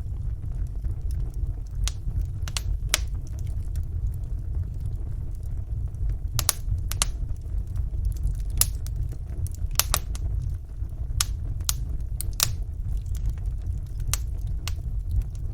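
Wood fire burning in a fireplace: a steady low rumble of the flames with irregular sharp crackles and pops from the logs, a dozen or more scattered through.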